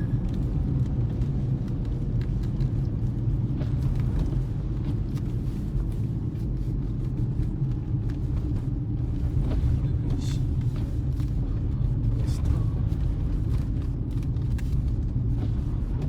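Steady low rumble of a car's engine and tyres, heard from inside the cabin of the moving car, with a couple of faint ticks.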